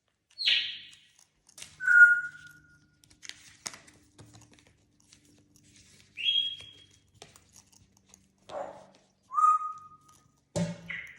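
African grey parrot whistling a few short, separate notes, some held on one pitch, one falling and one rising, with scattered light clicks and taps in between.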